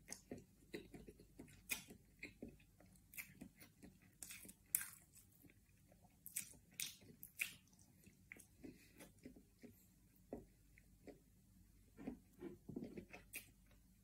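A person chewing a mouthful of hard-boiled egg, heard close up as faint, irregular mouth clicks and smacks.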